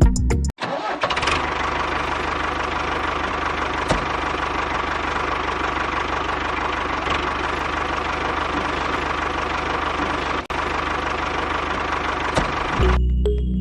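Small engine running steadily with a fast, even knocking beat. It starts just after half a second in, cuts out for an instant about ten and a half seconds in, and gives way to music near the end.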